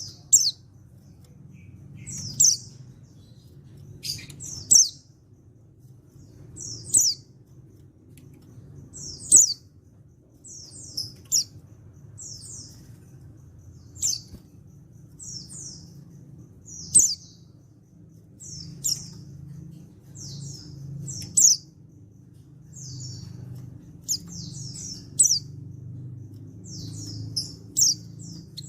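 Male white-eye (pleci) calling: short, high chirping notes in quick clusters, repeated about every two seconds, over a faint low hum. A male's call of the kind that prompts other white-eyes to answer and sing.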